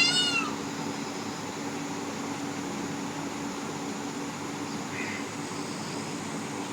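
A peacock gives one loud call right at the start, a single note that rises and falls in pitch and lasts about half a second. After it comes a steady low background hum, with a faint short call about five seconds in.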